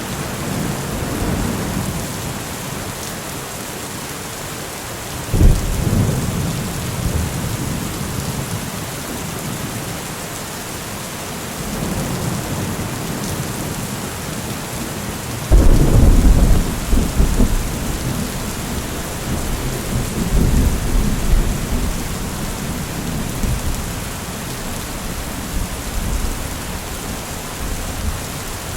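Steady rainfall with thunder: a sudden low clap about five seconds in, the loudest rumble about halfway through, and another rolling rumble soon after.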